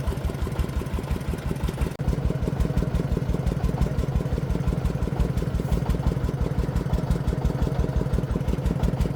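Single-cylinder diesel engine of a công nông farm truck running with a steady rapid chugging beat, getting louder about two seconds in.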